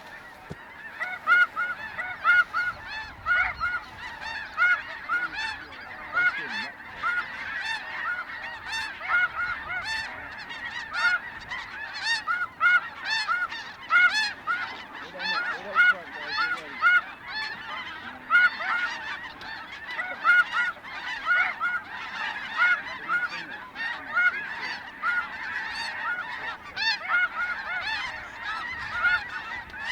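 A large flock of snow geese calling: a dense, continuous chorus of short, high-pitched honks overlapping one another.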